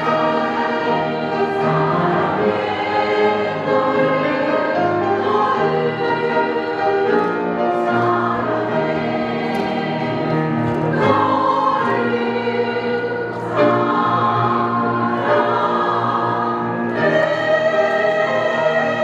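Women's vocal ensemble singing a choral piece in parts, holding long chords that shift every few seconds.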